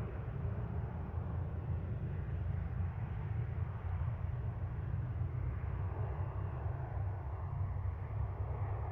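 Embraer ERJ-170 regional jet's twin turbofan engines heard from a distance as a steady low rumble with a hiss over it during the takeoff.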